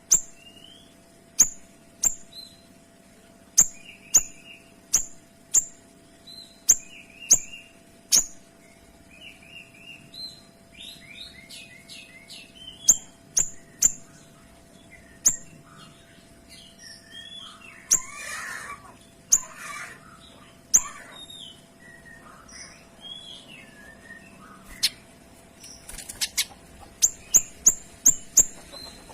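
A kinoy singing: a string of sharp, high, downward-flicking notes roughly once a second, the 'tembakan' bursts that bird keepers prize. Softer, varied twittering takes over in the middle, and a quick run of sharp notes comes near the end.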